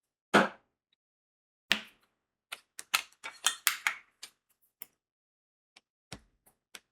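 Diamond-painting work: sharp little clicks and taps of crystal drills being picked up and pressed onto the adhesive canvas. A loud tap comes just after the start, a quick run of clicks a few seconds in, then a few light ticks.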